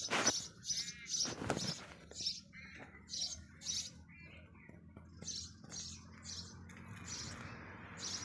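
Small birds chirping, short high notes repeated about two to three times a second, with two soft knocks near the start.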